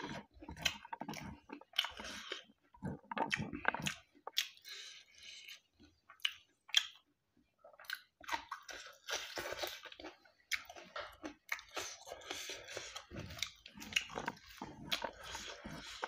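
A person chewing and biting mouthfuls of rice and buffalo meat curry, with wet, clicky mouth sounds and some crunch, and a brief lull about seven seconds in.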